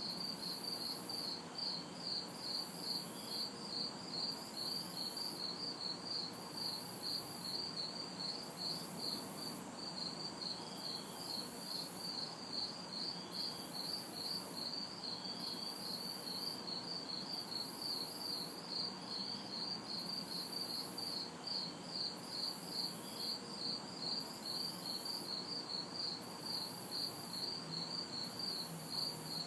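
Night insect chorus: crickets chirping steadily at about two chirps a second, with a higher-pitched insect buzz switching on and off roughly once a second. Faint, steady distant traffic hum underneath.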